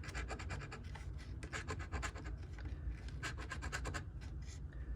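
Scratch-off lottery ticket being scratched in quick runs of rapid short strokes, clearing the coating off the number spots.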